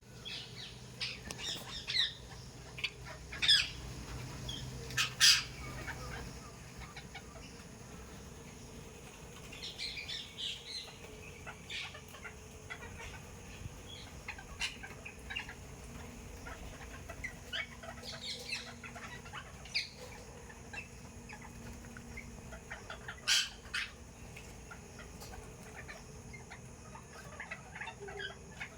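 Parrots and sparrows calling: scattered short, sharp calls and chirps, with a few louder screeches near the start and one about two-thirds of the way through.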